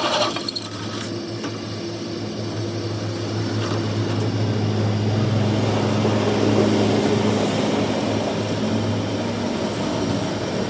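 A machine's motor running steadily with a low hum over broad mechanical noise, after a short high-pitched hiss at the very start.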